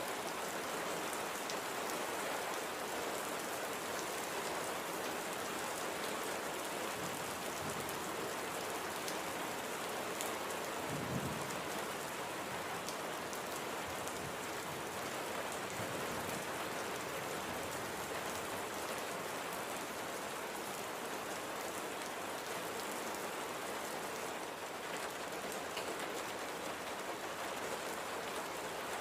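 Light, gentle rain falling steadily, an even patter of drops on surfaces, with one brief low thud about a third of the way through.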